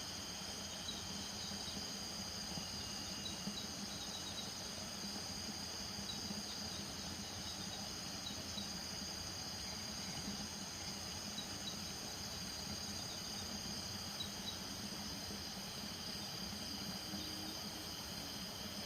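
Night chorus of crickets trilling steadily at several high pitches, with scattered short chirps on top and a low steady drone underneath.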